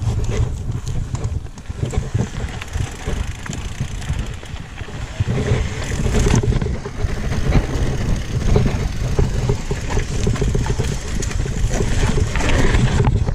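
Wind buffeting the microphone while a bike descends a rough downhill trail, with steady rumbling and frequent rattles and knocks from the bike going over bumps.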